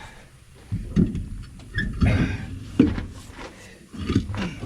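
A handful of irregular knocks and clunks, about five over a few seconds, from work on a trailer wheel just lowered onto the ground.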